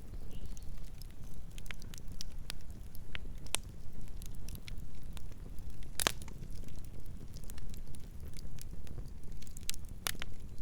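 Campfire burning with a steady low rumble and irregular crackles and pops of burning wood; the sharpest pop comes about six seconds in.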